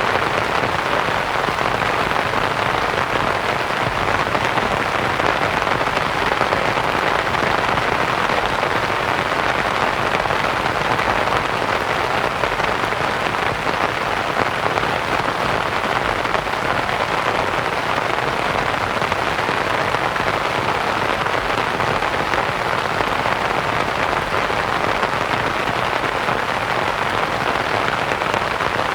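Steady rain falling on a canvas tent, blended with a soft white-noise hiss.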